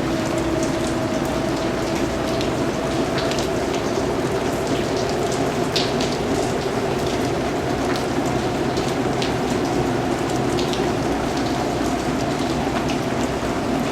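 Steady rain falling, with individual drops ticking on a surface over a constant hiss.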